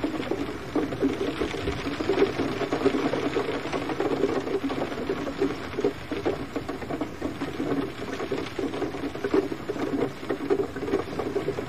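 Gentle rain falling in a steady, dense patter of close drops.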